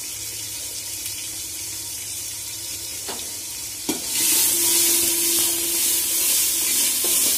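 Tomatoes, green chillies and spices sizzling in mustard oil in a metal pot. About three seconds in, a metal spatula knocks twice against the pot and starts stirring, and the sizzling grows much louder.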